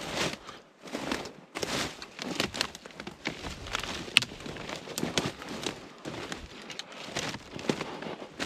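Footsteps crunching through the woods, irregular steps with crackling, and a single sharp snap about four seconds in.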